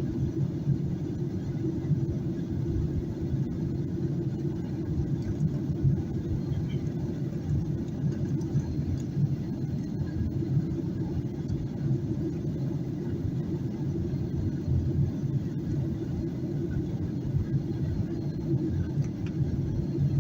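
Steady low rumble inside the cabin of a Boeing 737-800 in flight: engine and airflow noise from a rear window seat, even throughout with no distinct events.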